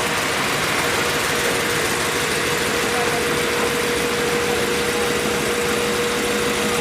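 Engine running steadily at idle, with a constant high whine over it.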